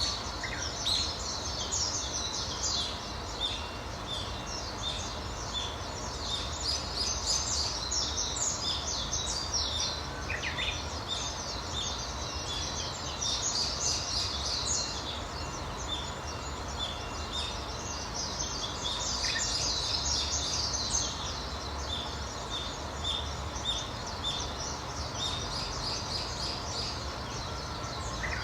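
Several small birds chirping and singing, many short high calls overlapping throughout, over a steady low background rumble.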